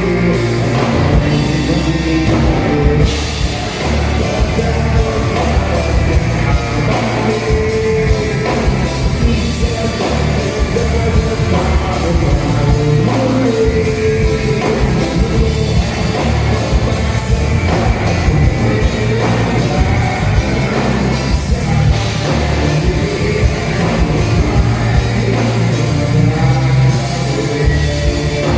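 A band playing a rock song with a drum kit and a singer, loud and continuous.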